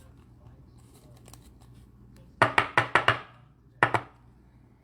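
A quick run of about five sharp taps on a hard surface, then two more a second later, with faint light clicks before them.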